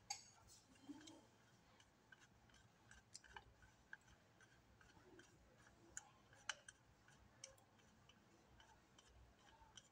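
Near silence with a few faint, scattered clicks of a screwdriver turning the screws of an electrical power socket as it is tightened down.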